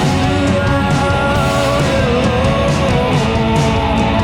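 Rock band playing live: electric guitars, bass and drums in an instrumental passage between sung lines.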